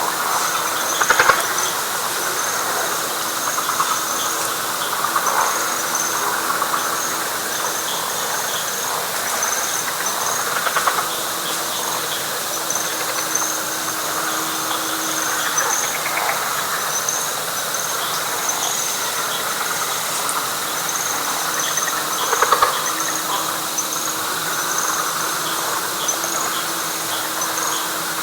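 Night chorus of frogs and insects in a wet pine flatwoods: a dense steady chorus with high, rapidly pulsing insect trills above it and a low steady drone that breaks off now and then. A few louder calls stand out from the chorus, about a second in and again about 22 seconds in.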